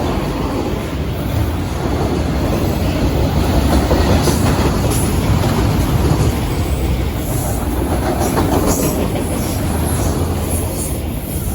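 CSX freight train's cars rolling past, steady rumble with wheels clacking over rail joints and brief high wheel squeal and clicks in the middle and later part.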